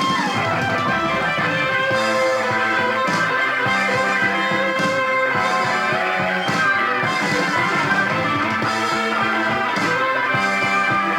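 Instrumental 1970s rock recording with guitars over a steady beat, no singing: a band passage from a vinyl LP.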